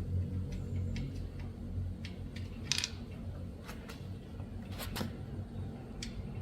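A steady low hum with scattered light metallic clicks and taps, several seconds apart.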